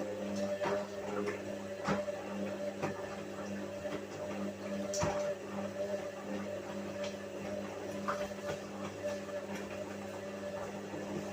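Whirlpool washing machine running: a steady motor hum with a slightly wavering tone, and irregular knocks and clicks.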